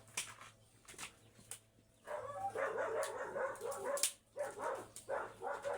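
A dog whining and yipping in a run of short calls starting about two seconds in, after a few sharp clicks.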